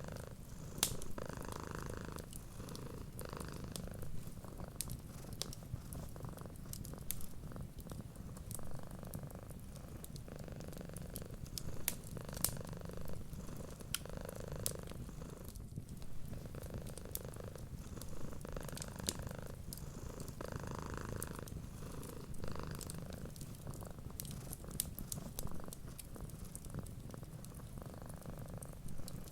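Domestic cat purring steadily, the purr swelling and easing with each breath about every two seconds. Scattered sharp crackles of a wood fire sound over it.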